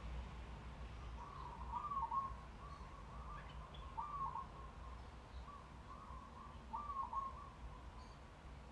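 Birds calling: short chirping phrases about every second, over a low steady rumble.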